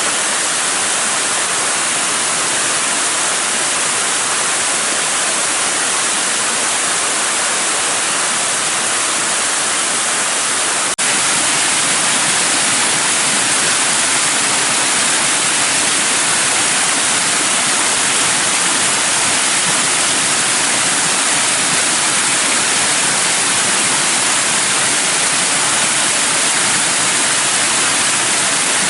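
Shiraito Falls rushing steadily: an even hiss of falling water, strongest in the upper range. About eleven seconds in there is a faint click and the level steps up slightly.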